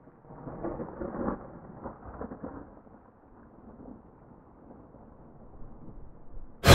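Horror-film sound design: a muffled low rumble that swells with a few dull knocks, then dies down to a faint murmur. Near the end a sudden, very loud scary-music stinger hits.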